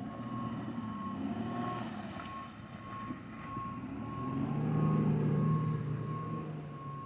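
Tow truck's backup alarm beeping steadily, about twice a second, over the truck's engine, which runs louder about two-thirds of the way through as the truck works.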